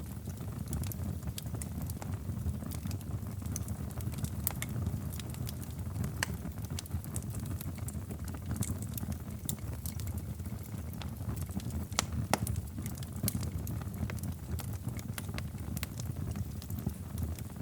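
Wood fire crackling in a fireplace: a steady low rumble of the flames with irregular sharp pops and snaps, one louder pop about twelve seconds in.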